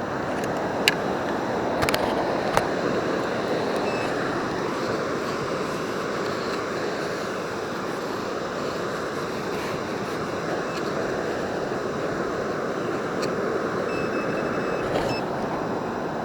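Steady wash of surf and wind on a beach. There are a few sharp clicks in the first three seconds and two more later on. Short high-pitched beeps from a Nokta Makro Simplex metal detector come about four seconds in and again near the end.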